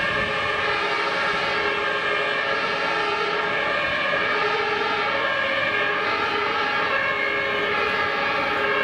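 German two-tone emergency sirens (Martinshorn) of fire engines on an emergency run, alternating steadily between two pitches, with more than one siren sounding over each other.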